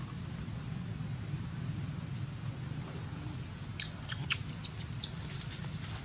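A quick cluster of about six short, sharp, high-pitched animal squeaks about four seconds in, with a single faint high chirp earlier, over a steady low rumble.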